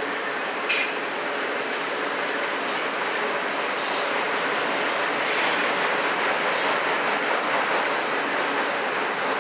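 Autorack freight cars rolling past, a steady noise of wheels on rail, with a brief high wheel squeal just under a second in and a louder one about five seconds in.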